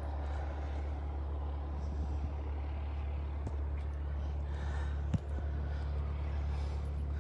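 Steady low rumble of wind buffeting the phone microphone, with a single short tap about five seconds in.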